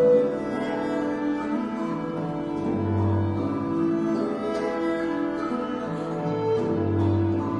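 Early-music ensemble playing: a viola da gamba bows sustained notes over plucked and wind parts, with a deep low note sounding about every four seconds.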